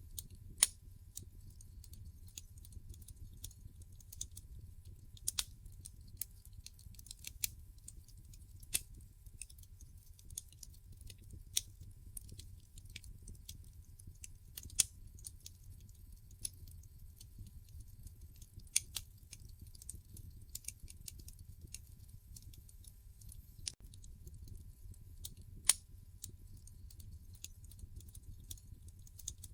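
Wood fire crackling in a fireplace: irregular small snaps and clicks, with a handful of louder sharp pops scattered through, over a steady low rumble.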